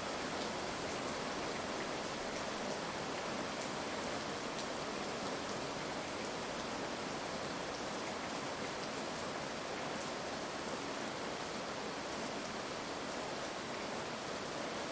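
Heavy rain falling steadily: an even hiss with faint scattered drop ticks, and no thunder.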